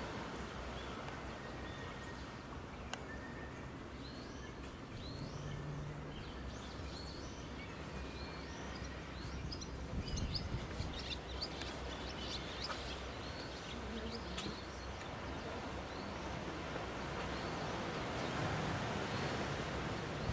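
Birds chirping in short, high notes, thickest about halfway through, over a steady wash of surf on a rocky shore.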